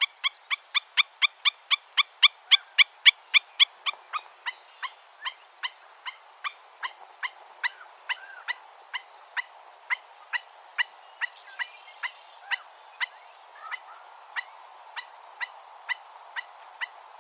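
A bird calling in a long run of short, sharp, evenly spaced notes, about four a second at first, then slowing and growing fainter after a few seconds.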